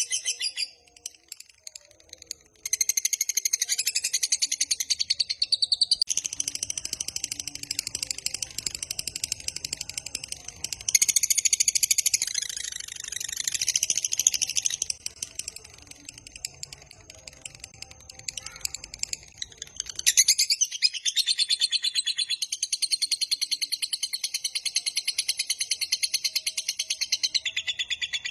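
A lovebird's long 'ngekek' song: a fast, high-pitched chattering trill of rapidly repeated notes, sung in long unbroken runs of several seconds. The bird pauses briefly about a second in, then resumes.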